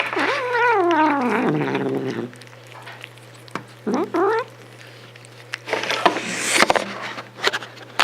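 Domestic cat meowing: one long, wavering call that falls in pitch over about two seconds, then a shorter call about four seconds in. A stretch of crackly clicking noise follows near the end.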